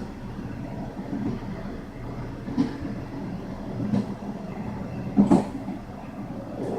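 Passenger train running on the rails, heard from inside the carriage: a steady rumble with a few sharp clacks from the wheels, the loudest just past five seconds in.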